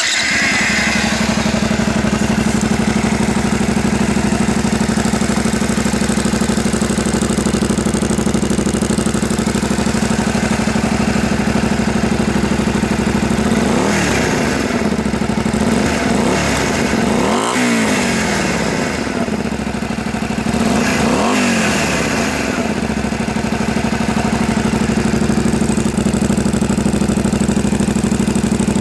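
Honda Varadero 125's small V-twin engine through an aftermarket Devil exhaust. It idles steadily, is blipped several times in quick succession about halfway through, then settles back to idle.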